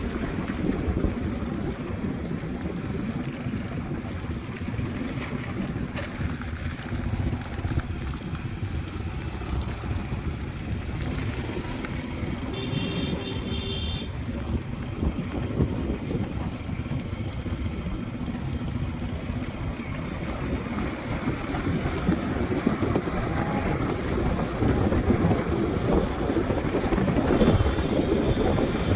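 Motorbike riding with wind buffeting the microphone: a steady rush of engine and wind noise that grows louder near the end. A brief high tone sounds about halfway through.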